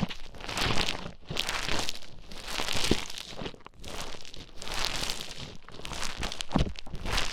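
Play Foam, a beaded modelling compound, being squished and mixed close to the microphone: dense crackling and crunching that swells and fades about once a second.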